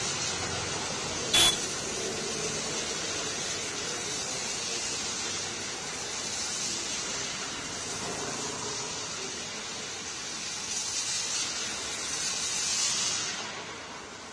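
Steady hiss of heavy rain falling, swelling louder near the end and then easing off. A single sharp click comes about a second and a half in.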